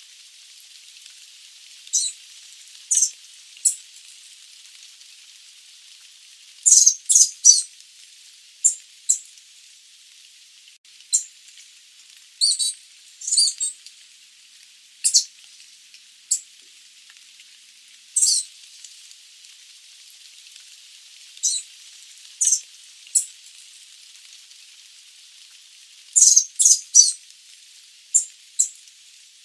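Sooty babbler (Stachyris herberti) giving short, high-pitched call notes, some single and some in quick runs of two to four, over a steady faint hiss.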